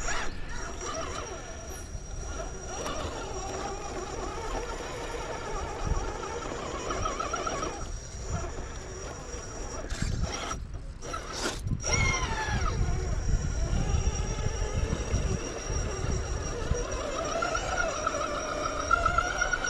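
Electric RC rock crawler's motor and geared drivetrain whining as it crawls over rock, the pitch rising and falling with the throttle, over a steady high-pitched tone and a low rumble. A short stretch of climbing whine comes about twelve seconds in.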